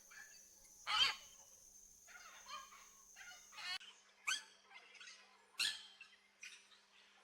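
Aviary birds calling: three short, harsh squawks, the first the loudest, with softer chattering calls between them.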